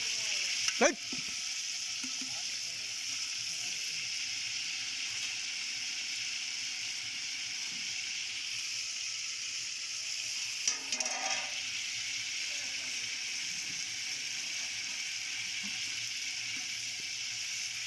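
Food frying in hot oil, a steady sizzle throughout, with a sharp knock about a second in and a brief clatter near the middle.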